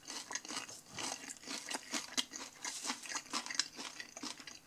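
Close-up chewing of crisp fried food: a quick, irregular run of crunches with no speech.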